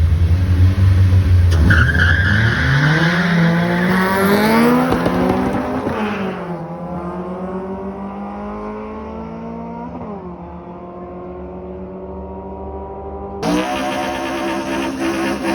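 Drag racing cars launching at full throttle. After a deep rumble, the engine note climbs steeply, drops back about six seconds in, climbs again and drops back once more around ten seconds, fading as the car runs away. Near the end the sound jumps suddenly to another engine running at a steady high pitch.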